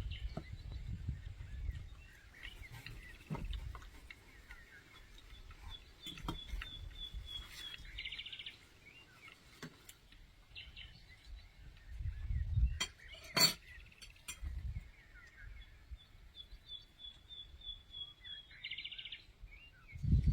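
A songbird singing outdoors, giving the same phrase twice: a run of quick high notes ending in a short buzzy trill, with other faint chirps between. A low rumble and a sharp click come about twelve to thirteen seconds in.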